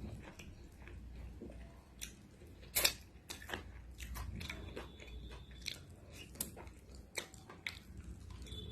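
Close-miked eating: wet chewing and biting with scattered mouth clicks and smacks, and one louder bite about three seconds in.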